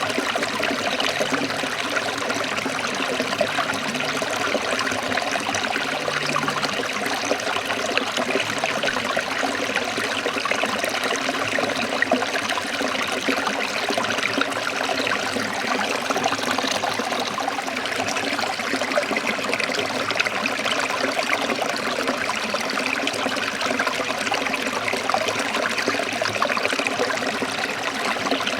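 Forest stream trickling and splashing over rocks, a steady, even rush of running water.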